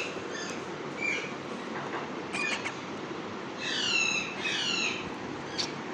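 Parrot squawking: two harsh calls about halfway through, each sliding down in pitch, with a few short chirps before and after, over steady background noise.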